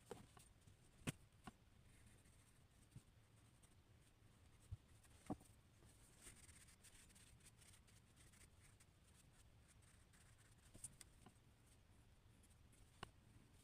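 Faint scratching of drawing on paper, broken by a few sharp taps and clicks, the loudest about a second in and about five seconds in.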